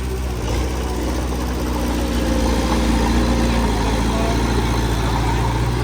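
Heavy diesel machinery engine running steadily, getting a little louder about two seconds in.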